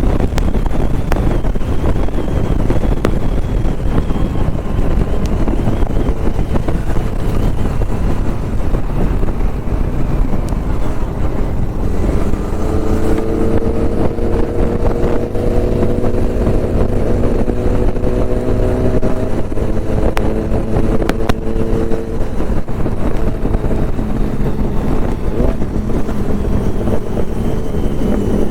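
Motorcycle at highway speed, with heavy wind and road noise on the microphone; about halfway through, an engine note comes in and slowly climbs in pitch as the bike pulls.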